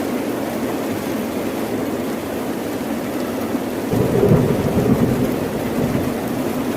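Steady rain falling, with a low roll of thunder that breaks in suddenly about four seconds in and rumbles for about two seconds before fading back into the rain.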